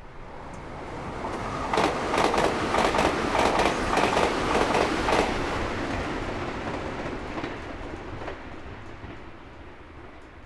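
Meitetsu Nagoya Main Line train passing by, its wheels clacking over rail joints. It builds up, is loudest with quick clacks for about three seconds, then fades away.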